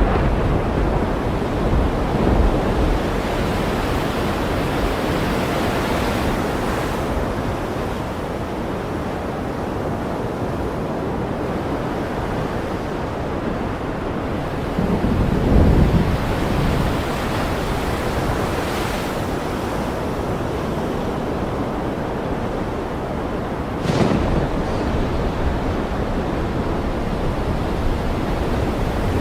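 Ocean surf washing steadily as an even rushing noise. A low rumble swells briefly about halfway through, and a short sharp crack comes near the end.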